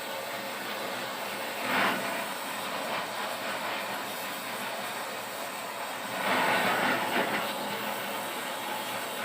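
Metal lathe running, its cutting tool scraping on a steel motorcycle primary gear being turned down, a steady hiss with louder cutting swells about two seconds in and again around six to seven seconds.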